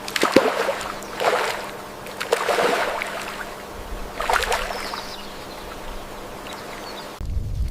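Water splashing and sloshing in four or five separate bursts over a steady background hiss. A low rumble starts abruptly near the end.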